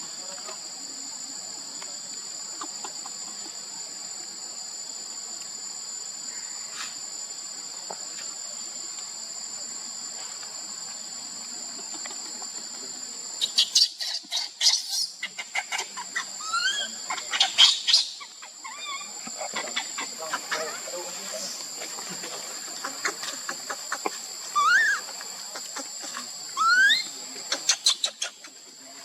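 Steady high-pitched insect drone of crickets, two pitches held throughout. From about halfway, loud clicking bursts and short rising animal calls break in over it.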